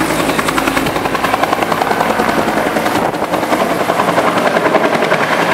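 Eagle Single helicopter, a single-engine conversion of the Bell 212, running close by. Its two-bladed main rotor makes a rapid, even beat over the engine's steady noise.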